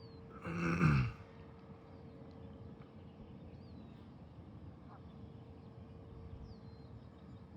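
A short vocal sound with falling pitch, like a sigh or groan, about half a second in, over steady wind noise and a faint constant hum.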